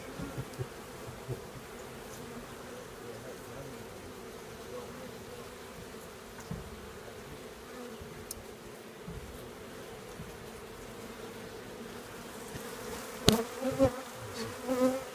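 A honeybee colony buzzing steadily as its comb is exposed during a cutout from a building wall, a constant hum with a sharp knock and a few bumps near the end.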